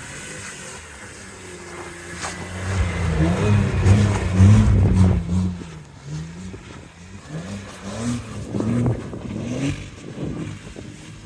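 Car engine revving up and down in repeated surges, loudest about four to five seconds in, as the car tries for grip with its wheels spinning in the snow.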